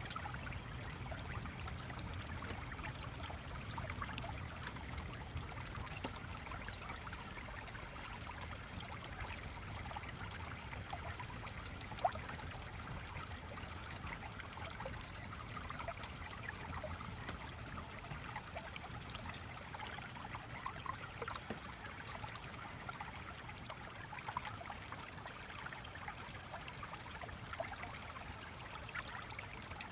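Gently flowing stream, steady trickling and babbling water, with fine scattered ticks through it and one sharp click about twelve seconds in.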